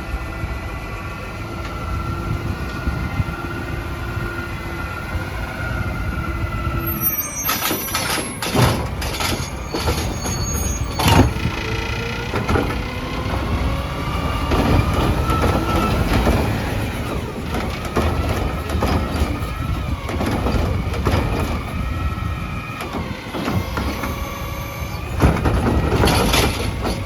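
Autocar ACX trash truck at work: the engine runs with a steady whine for the first several seconds, then repeated metal clanks and bangs start about seven seconds in and carry on.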